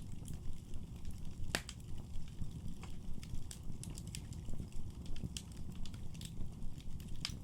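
Wood fire burning in a fireplace: a steady low rumble of flames with irregular crackles and pops from the burning logs, the sharpest about a second and a half in and near the end.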